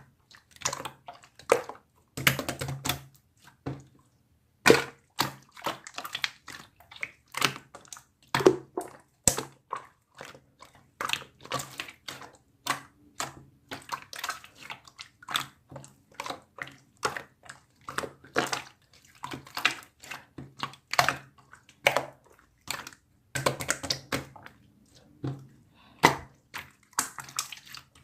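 Slime being squished and pressed by hand: irregular wet squelches and sharp popping clicks, a few each second.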